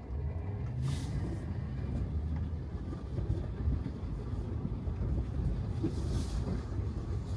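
Low rumble of a Tesla Model 3 electric car's tyres rolling over wet pavement, with no engine note. There are two brief hisses, about a second in and near six seconds.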